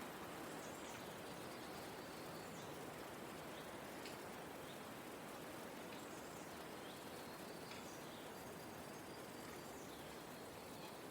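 Forest ambience: a steady soft breeze hiss with faint, scattered high bird chirps every second or two.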